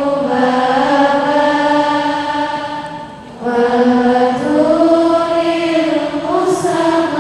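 Vocal chanting in long, held notes that step slowly in pitch, with a brief break about three seconds in.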